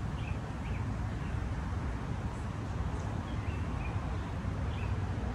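Steady low outdoor rumble, with a few short bird chirps at the start and again near the end.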